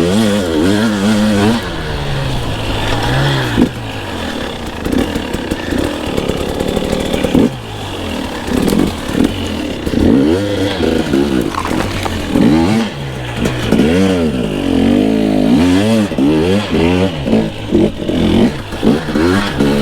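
Two-stroke motocross bike engine revving up and down again and again as the throttle is opened and shut, its pitch rising and falling every second or two.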